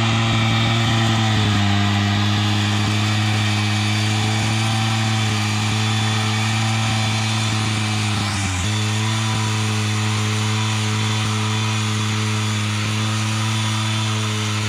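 Small petrol engine of a garden power tool running steadily, with a brief dip in engine speed about eight and a half seconds in.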